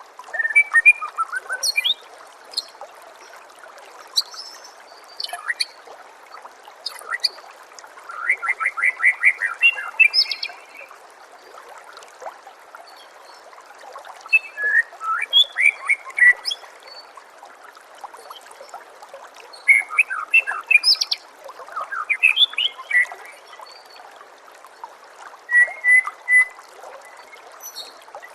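White-rumped shama (murai batu) singing in bursts of rapid, varied phrases a few seconds apart, over a steady trickle of running water.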